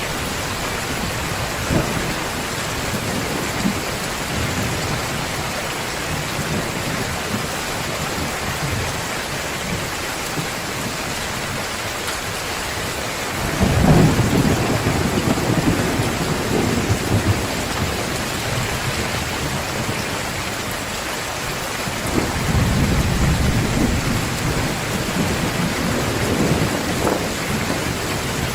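Heavy rain falling steadily, with low rolls of thunder: the loudest swells up about halfway through, and another longer rumble comes near the end.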